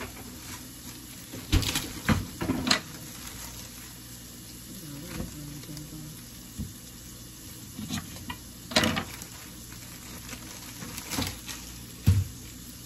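Steady sizzle of food frying in a pan, with about six sharp knocks and clatters of kitchen items being handled, the loudest near the end.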